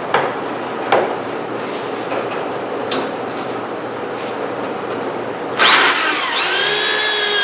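Power drill boring pocket holes in an oak brace, with a few sharp knocks early on. About five and a half seconds in, the drill comes up loudly and settles into a steady whine.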